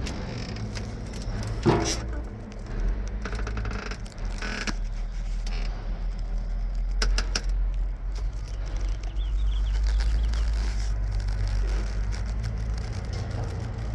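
Caterpillar 3406 inline-six diesel of a 1990 Peterbilt 379 idling with a steady low drone. Metal clicks and rattles over it, the loudest a sharp click about two seconds in, with more rattling a few seconds later and a couple of clicks about seven seconds in.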